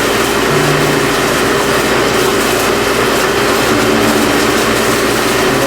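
Loud, steady drone of restaurant kitchen equipment running, with a constant hum under it, loud enough to drown out a voice.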